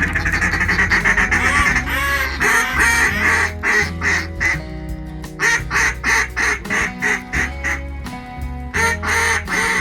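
Duck calls blown in fast runs of sharp quacks, pausing briefly about halfway through, over a background music track with a steady bass line.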